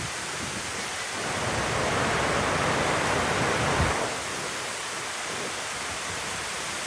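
Heavy rain pouring down in a steady hiss, swelling louder for a few seconds about a second in.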